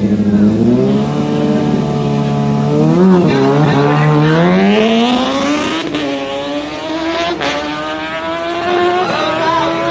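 Racing motorcycle engine accelerating hard. Its pitch climbs, drops at a gear change about three seconds in, then climbs again.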